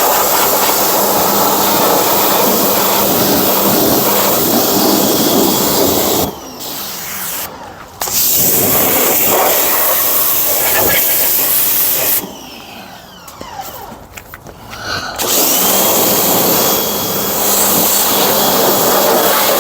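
Small pressure washer spraying, a steady loud hiss of the water jet over the pump's hum. It stops twice as the trigger is let go: for a second or two about a third of the way in, and for about three seconds past the middle.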